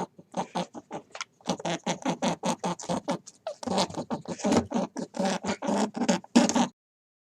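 An animal giving a fast series of short pitched calls, about four to five a second in runs with brief gaps, which stop abruptly near the end.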